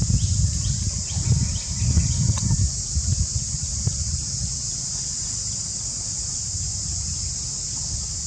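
Steady high-pitched drone of insects, with a low rumble that is strongest in the first three seconds, and a few short falling chirps early on.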